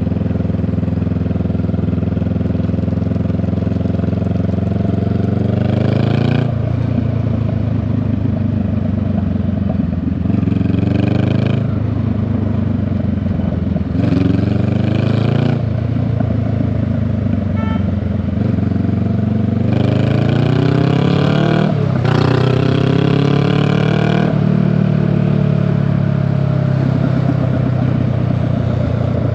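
Honda Rebel 500's parallel-twin engine through a raw, open-sounding exhaust while riding, its pitch climbing several times under acceleration and dropping back at each gear change or roll-off.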